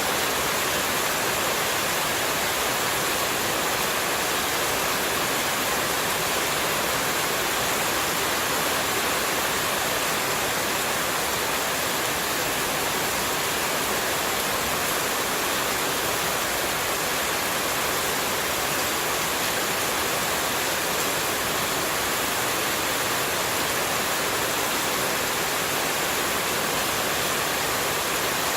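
Steady rushing of running water, an even, unchanging hiss played as white noise.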